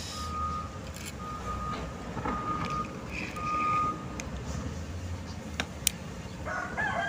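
A vehicle's reversing alarm beeping on and off in single high tones over a low engine rumble. A rooster starts crowing near the end.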